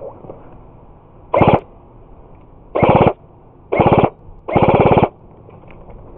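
Airsoft gun firing four short full-auto bursts, each a rapid rattle of shots about twenty a second, the last burst the longest.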